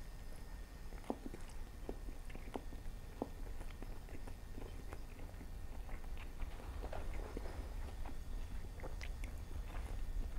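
A person chewing a mouthful of Chinese food, heard close up on a clip-on microphone: soft, wet mouth clicks and smacks scattered irregularly throughout.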